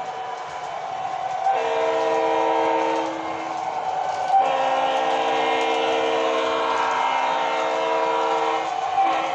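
Train horn sounding two blasts, a chord of several tones: a shorter one about a second and a half in, then a longer one of about four seconds, over the train's steady running noise.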